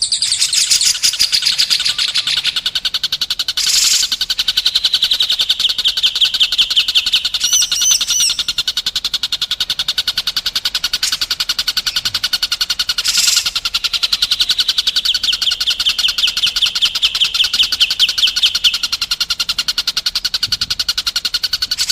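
Recorded songbird song used as a training track for caged songbirds: a long, very fast rolling trill of rapidly repeated notes that runs without a break, with a few short high chirps about a third of the way through.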